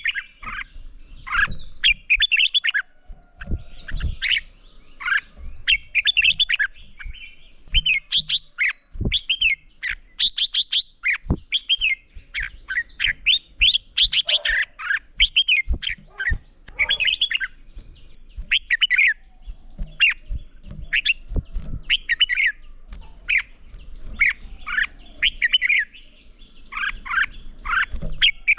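Red-whiskered bulbuls singing in competitive song: a dense run of short, quick whistled phrases that sweep up and down, one after another, with a few dull knocks in between.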